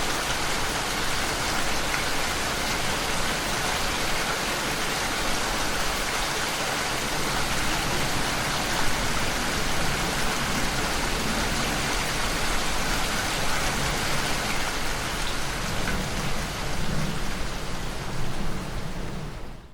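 Steady rain falling, an even hiss of many drops. It fades out right at the end.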